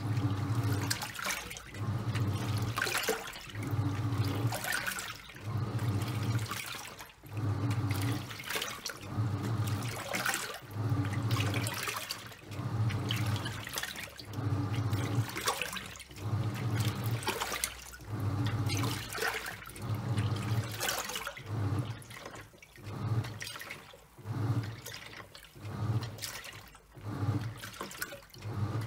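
Top-loading washing machine agitating a load of towels: the pulsator motor hums in short pulses about once a second as it drives the drum back and forth, with water sloshing and splashing.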